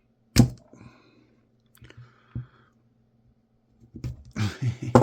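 A sharp crack of plastic, then a few lighter clicks, and near the end a stretch of clattering and scraping: hand tools prying at the small plastic switch of a scrapped orbital sander.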